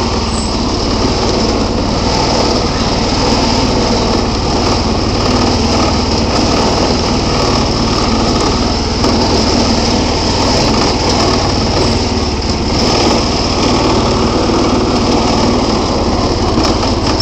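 Bolens garden tractor's engine running steadily as the tractor drives along.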